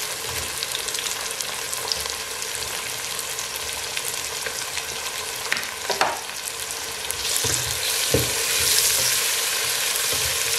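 Onions, ginger-garlic paste and freshly added chopped tomatoes sizzling in hot oil in a pot, with a few knocks. The sizzle grows louder about seven seconds in, and a wooden spoon stirs the mixture near the end.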